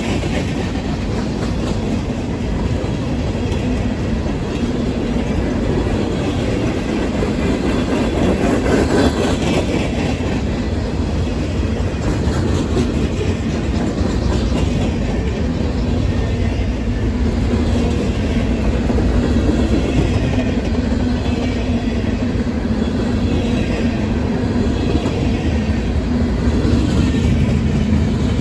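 Freight train cars rolling past close by: steel wheels running on the rails in a steady, loud rolling noise that carries on without a break.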